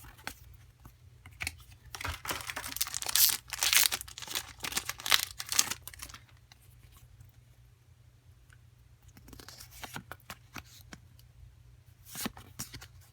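Foil booster pack of Pokemon cards being torn open, a few seconds of tearing about two seconds in, followed by quieter handling of the wrapper and cards.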